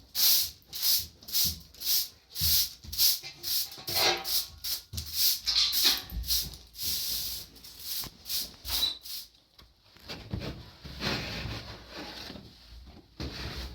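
Rapid scrubbing strokes on a hard surface, about two a second, from hand cleaning with a scraper or brush. They stop about nine seconds in, giving way to a softer, steadier rubbing noise.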